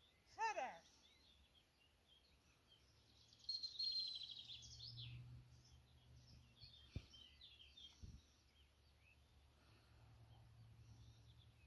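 Faint birdsong over a very quiet field: a fast, high trill about three and a half seconds in, then scattered chirps, over a faint low wind rumble. A short, louder wavering call comes just after the start, and two faint knocks follow later.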